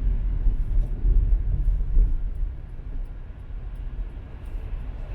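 Low, steady rumble of a car driving, heard from inside the cabin, with faint scattered ticks.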